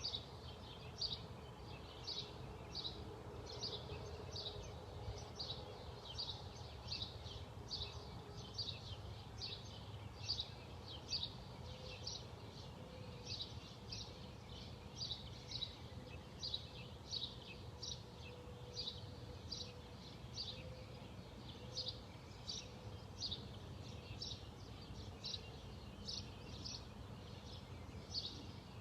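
A bird repeating a short, high call over and over at an even pace, about one and a half times a second, over a steady low background rumble.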